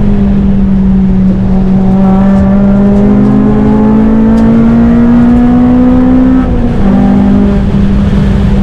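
FN2 Honda Civic Type R's four-cylinder engine pulling hard under load, its note climbing slowly for several seconds. About six and a half seconds in the pitch drops suddenly, as at an upshift, and the engine then runs on steadily.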